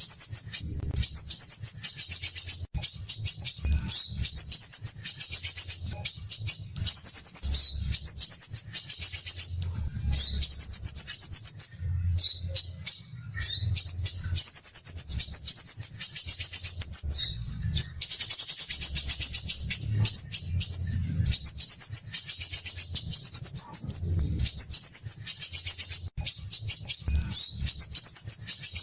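Crimson sunbird (sepah raja) singing: dense, rapid, rasping high trills, the tight 'besetan' phrasing, repeated in bursts of one to two seconds with short breaks between.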